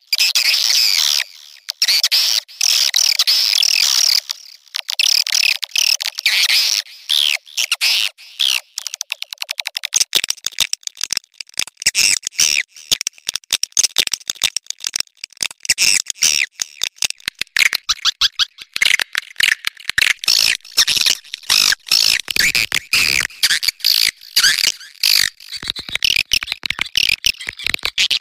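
Swiftlet calls from a mating-call lure track: rapid, high twittering chatter. About ten seconds in, a dense run of quick clicks joins the twittering and continues.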